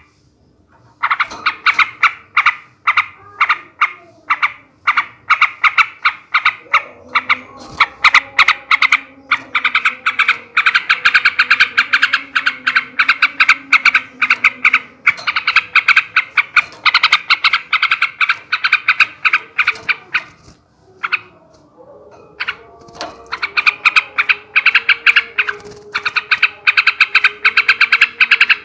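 Male yellow-vented bulbul (trucukan) singing a long, fast chattering song of rapidly repeated notes in extended runs, with a brief break about twenty seconds in.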